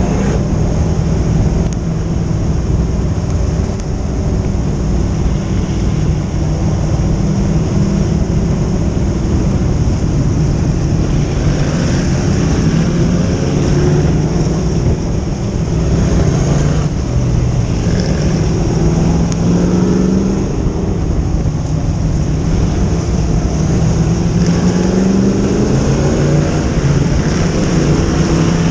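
Dirt-track modified race car engines running hard, their pitch rising and falling again and again as the cars lap, over a steady rumble.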